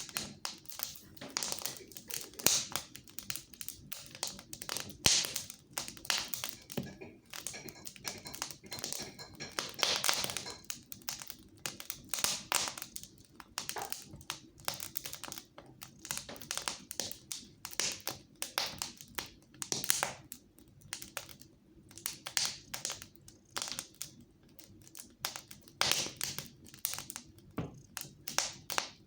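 Fire crackling in a fireplace: dense, irregular pops and snaps, several a second, with a few sharper, louder cracks.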